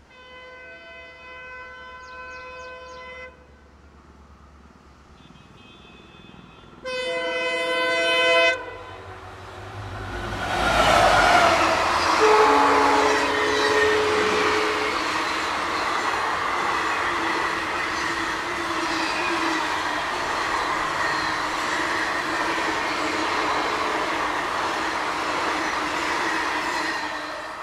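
Indian Railways express train's locomotive horn, several blasts: a long one at the start, a faint one, then a loud short one about seven seconds in. A few seconds later the train passes at speed, a loud steady rush of wheels on rails that drops off near the end.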